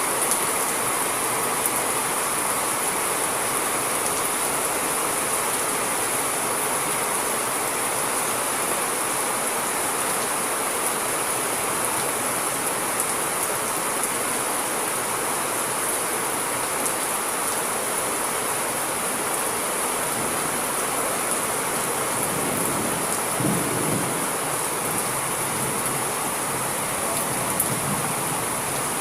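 Steady rain falling, an even hiss throughout, with a brief low rumble of thunder about three-quarters of the way through.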